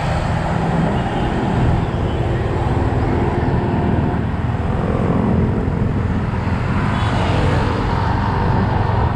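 Yamaha XSR 155's single-cylinder engine running steadily under way, mixed with road and traffic noise.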